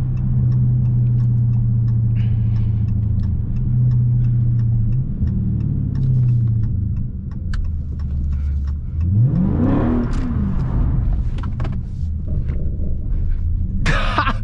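Dodge Charger Scat Pack's 392 (6.4-litre) HEMI V8 running steadily, then revving up and back down about ten seconds in.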